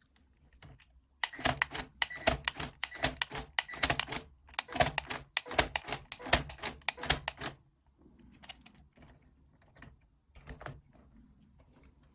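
Rapid, irregular plastic clicking and clattering from a motorized brick-built model car's gear-shift mechanism as it changes gear. The dense clicking starts about a second in and thins to a few scattered ticks after the middle.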